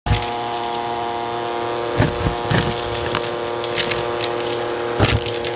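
Bissell CleanView upright vacuum cleaner running steadily with its crevice tool, a constant motor hum with a high whine over it, broken by scattered knocks and clicks about every half second to second.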